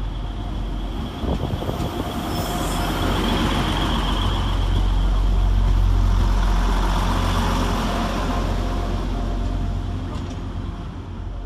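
Transport for Wales Class 175 diesel multiple unit running into the platform, its deep diesel rumble growing louder to a peak about halfway through and then easing as the train slows. A thin, high squeal runs over the first half.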